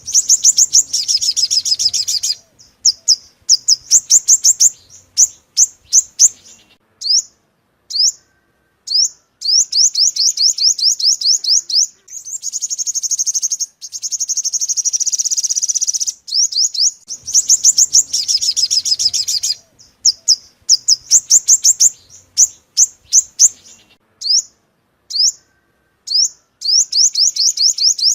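Sunbird song, the yellow-bellied 'five-colour' sunbird: fast, high-pitched trills and runs of sharp chirps in phrases broken by short pauses, the same sequence coming round again part-way through.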